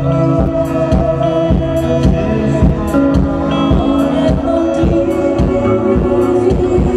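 Live ethno-folk band improvising: sustained drone tones over a steady beat of about two strikes a second.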